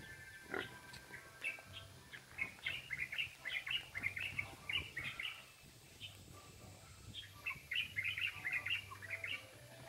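Small birds chirping: two spells of quick, short, high chirps, busy and overlapping, with a faint steady hum underneath.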